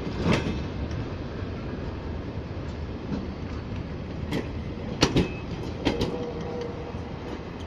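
DR1A diesel multiple unit's carriages rolling past on the track, a steady low rumble of wheels on rail with sharp clicks of the wheels over rail joints, most of them coming together about four to six seconds in.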